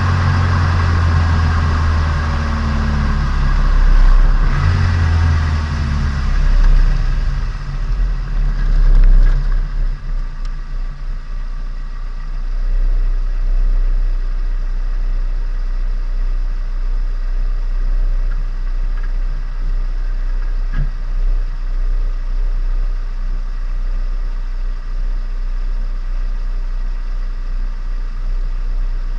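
Turbocharged Nissan Micra engine, heard from onboard, running with its note rising and falling for the first nine seconds or so, then settling to a steady low drone. One sharp click about two-thirds of the way through.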